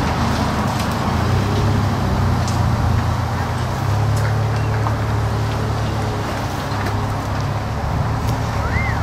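Steady low engine drone over a background rush of motor traffic, with a short high chirp that rises and falls near the end.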